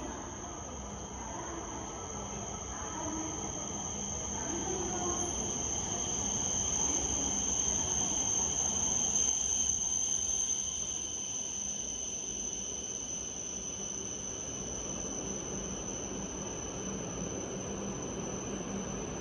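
E5 series Shinkansen pulling into a station platform: a rushing rumble swells as the train comes alongside, peaks about halfway, then eases as it slows. A steady high-pitched ringing tone holds throughout.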